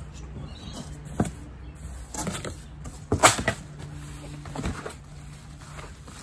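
Unpacking noises: cardboard box flaps being folded down and a bubble-wrapped, taped parcel handled on top of the box, giving a few soft thumps and crinkling rustles, the loudest about three seconds in.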